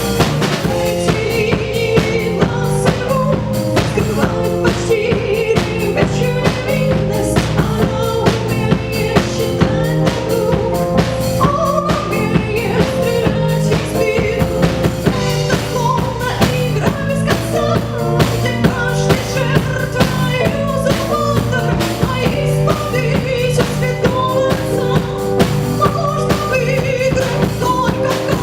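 Live band playing an instrumental passage: a drum kit keeps a steady beat under a melody line, with violin in the band's line-up.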